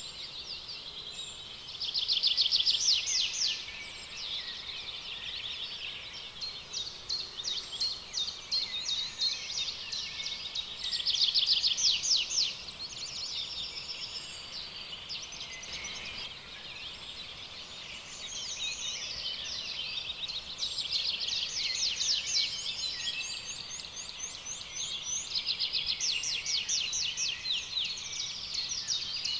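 Dense chorus of birds calling, many fast repeated trills and chirps overlapping, swelling louder about two seconds in and again about eleven seconds in.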